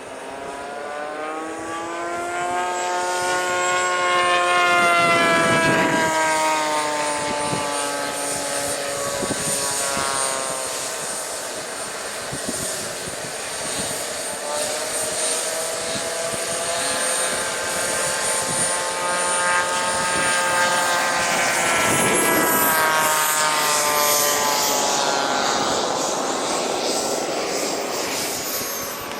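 RC model aircraft engine making two low flybys. Its pitch sags and climbs as it passes, and it is loudest as it goes by about five seconds in and again at about twenty-two seconds. A thin high whine rises in pitch near the end.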